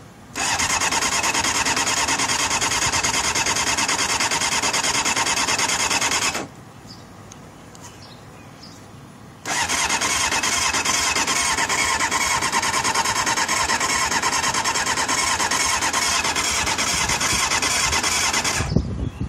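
Honda CBR600F2's starter motor cranking its inline-four engine, which does not fire: two long attempts, about six and nine seconds long, with a short pause between them and each cut off abruptly.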